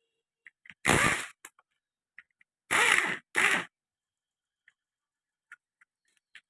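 Three short, loud bursts of hissing noise, one about a second in and two close together around three seconds in, with light clicks and taps of metal parts between them.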